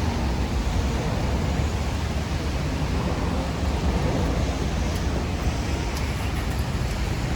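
Steady rain and city street noise: an even hiss with a heavy low rumble, and no single distinct event.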